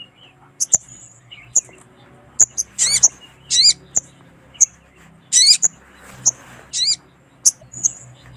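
Sogon (little spiderhunter) calling over and over: short, sharp, high chips mixed with brief wavering, warbled notes, one every half second to a second. This is the female call used to lure and stir up males.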